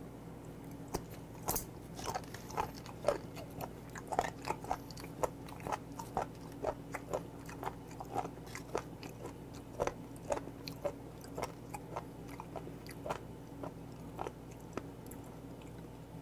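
Close-miked chewing of a mouthful of raw seafood: irregular wet, crisp crunches, about one or two a second, over a steady low hum.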